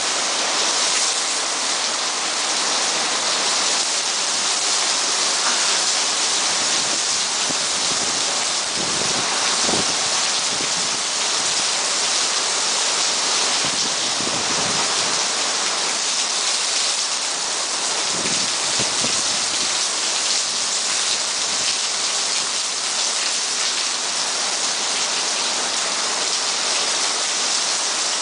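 Heavy hurricane rain pouring down in a steady, dense hiss, with a few brief low rumbles partway through.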